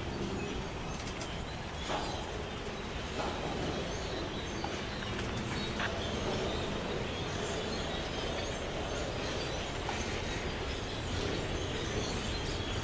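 Double-stack intermodal container train rolling steadily past: a low, even rumble of wheels on rail, with a few sharp clicks and knocks from the passing cars.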